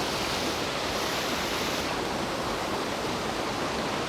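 Creek water rushing steadily down small waterfalls and rock slides.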